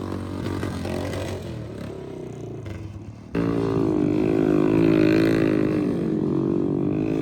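Motorcycle engines running. The first sound fades, then about three seconds in it cuts abruptly to a louder engine running at higher revs that waver up and down.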